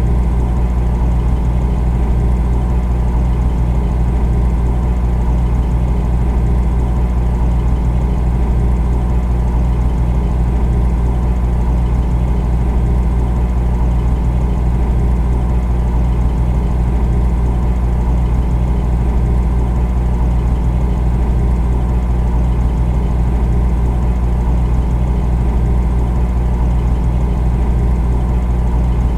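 Refrigerator running: a steady, unchanging low hum.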